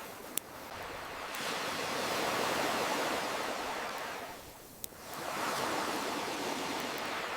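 Ocean waves washing in and receding in slow surges, with two sharp pops of a crackling wood campfire, one near the start and one just before the middle.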